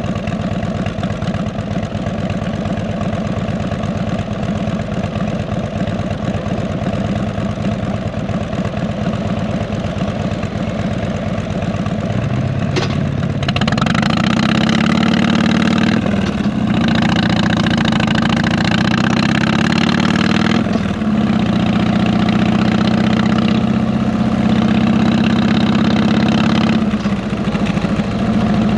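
Harley-Davidson Electra Glide Ultra Classic's V-twin with 33-inch fishtail exhausts, running evenly at low revs, then a little under halfway through getting louder as it pulls away. Its pitch climbs and drops back three times as it shifts up through the gears.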